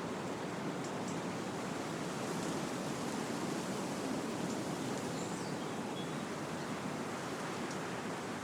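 Wind blowing through trees, a steady rush of leaves that swells a little midway, with a few faint, brief bird chirps.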